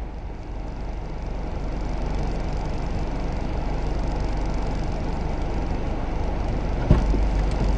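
Steady low hum of a car running at idle, with one short knock near the end.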